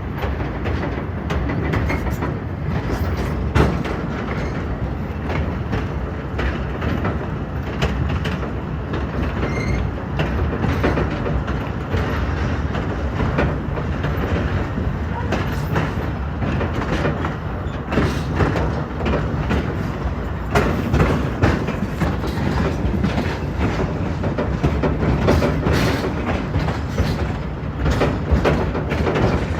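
Railway car rolling along the track: a steady rumble with many irregular clicks and knocks of wheels over the rail.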